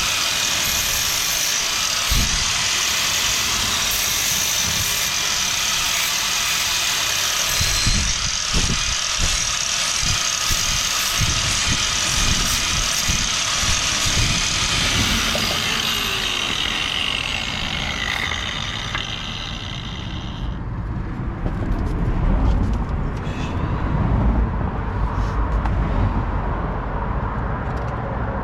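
Angle grinder running against sheet steel, a steady high hissing grind, then winding down with a falling whine about two-thirds of the way in. Lower rumbling and scattered knocks follow.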